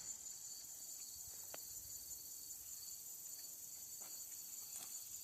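Faint, steady high-pitched insect chirring, like a cricket chorus, with a few soft clicks.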